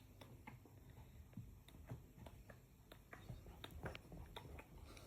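Pomeranian chewing a treat: faint, irregular crunching clicks, several a second.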